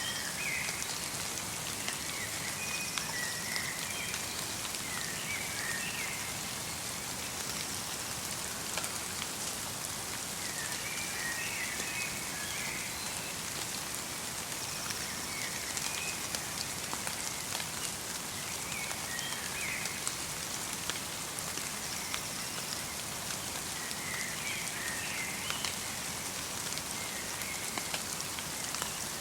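Light rain mixed with snow falling steadily on a winter forest, with many single drops ticking. A small songbird gives short chirping phrases every few seconds.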